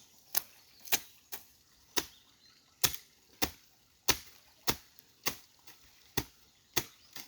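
Repeated chopping strokes of a hand tool, about two sharp hits a second at an uneven pace, as vegetation and debris blocking a stream are cut away.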